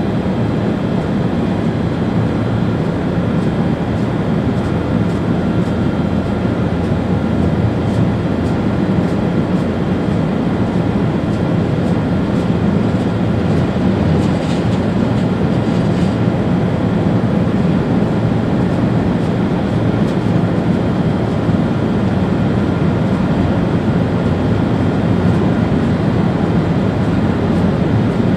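ÖBB Railjet train running at speed, heard from inside the driver's cab: a steady, even rumble of wheels on rail, with a few faint ticks around the middle.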